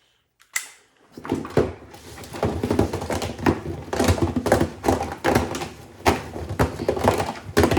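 Hard plastic calculators clattering and knocking inside an LG WM6700HBA washer's turning drum: a dense, irregular run of clicks and thunks that starts about a second in.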